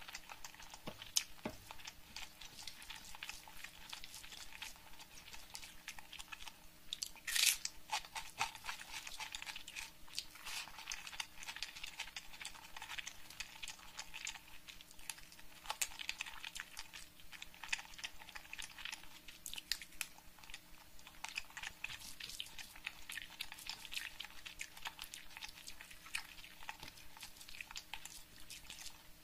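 Close-miked chewing and crunching of crispy fried food with the mouth, a steady run of crunches, with one louder crunchy bite about seven seconds in.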